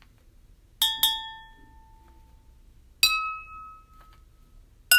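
A spoon tapping water-filled drinking glasses, tuned by how much water each holds, to play a melody: four clinks, the first two close together on the same note, each ringing out and fading. The pitch steps up from one glass to the next.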